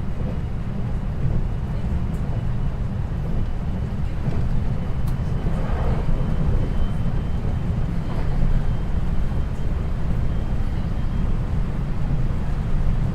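Running noise inside a 521 series electric train's motor car at speed between stations: a steady low rumble of wheels on rail, with a faint steady high tone above it.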